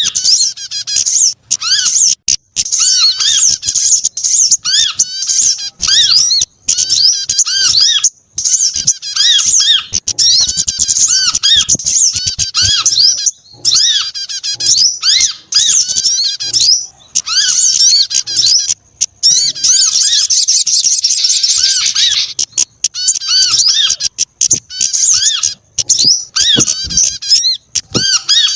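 Bird-lure recording of mixed small songbird calls: loud, rapid, repeated high chirps and arching whistled notes with brief gaps, thickening into a dense twittering chorus a little past the middle.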